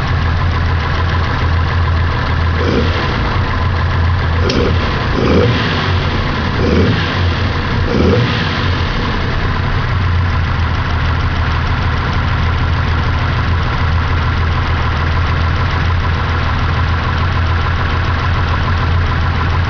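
Car engine idling steadily, just adjusted so that it will hold an idle, with a few quick throttle blips a few seconds in.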